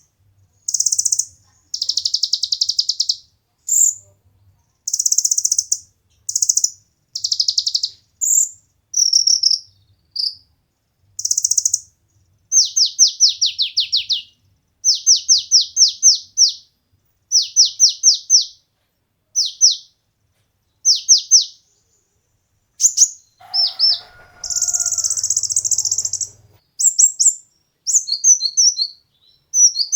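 Konin, a small sunbird kept as a songbird, singing a varied song of high chirps and harsh buzzy bursts. The middle stretch has quick runs of down-slurred notes, and there is a dense harsh burst about two-thirds of the way in.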